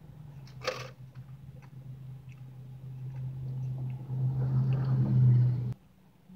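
Close-up chewing of a soft frosted cupcake, with a sharp click about a second in. Under it runs a low steady hum that grows louder over the second half and then cuts off abruptly near the end.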